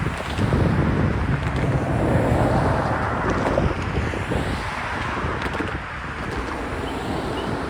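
Freight cars of a manifest train rolling past with a steady rumble and irregular clatter of wheels over the rails, with wind buffeting the microphone.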